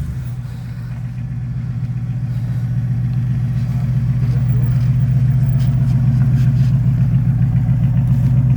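A vehicle engine running with a steady low drone that grows slowly louder.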